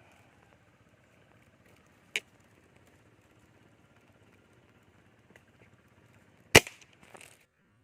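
An air rifle fires a single sharp shot about two-thirds of the way in. A lighter click comes about two seconds in, and a smaller crack follows just after the shot.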